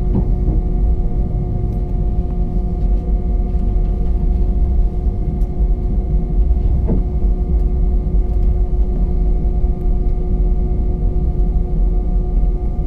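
Airbus A319 cabin noise with the jet engines running: a deep, steady rumble with several steady humming tones.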